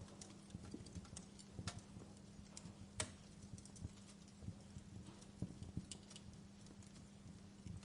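Wood fire crackling faintly: scattered, irregular pops and snaps, with one sharper pop about three seconds in, over a steady low hum.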